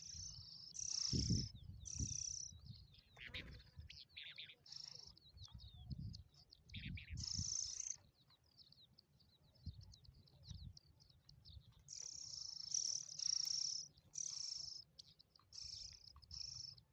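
Songbirds singing and chirping: repeated short high-pitched song phrases over many quick chirps, with a lull in the middle before the singing picks up again, and low rumbles underneath.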